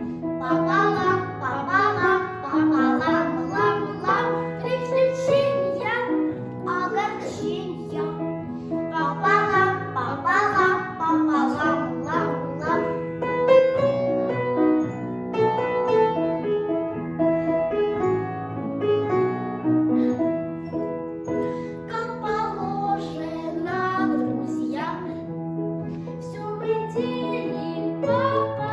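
Two children singing a Russian children's song together over an instrumental backing track with a steady bass line.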